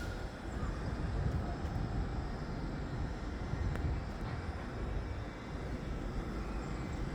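Railway station ambience: a steady low rumble of trains standing at the platforms, with a few faint clicks.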